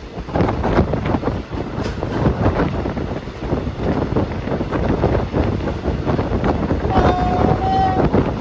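Passenger train running at speed, heard from on board: rushing wind on the microphone and rattling of the carriage. About seven seconds in, a train horn sounds for about a second in two short parts, the second a little higher.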